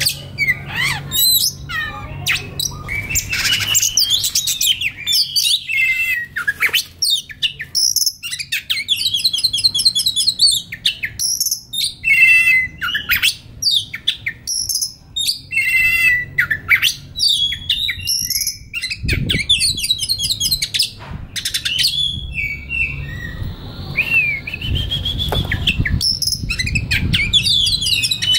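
Oriental magpie-robin singing a long, varied song of clear whistles, quick trills and rapid buzzy phrases, with barely a pause. A low rumble sits under the song for a few seconds in the middle and again near the end.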